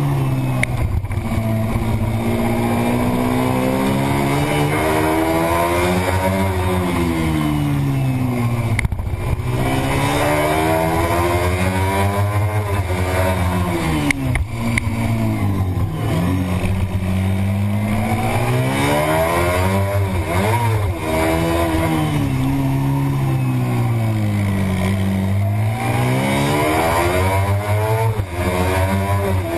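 Racing motorcycle engine heard from an onboard camera, running at high revs under race load. Its pitch repeatedly climbs and falls over a few seconds at a time as the bike accelerates along the straights and slows into corners, with a steady rush of wind underneath.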